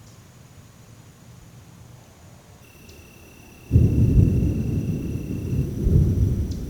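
A deep rumble like thunder that starts abruptly about halfway through, runs for about three seconds with a swell near the end, and cuts off suddenly.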